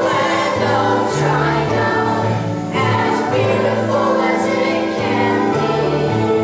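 Background music with a choir singing over sustained bass notes that change about once a second.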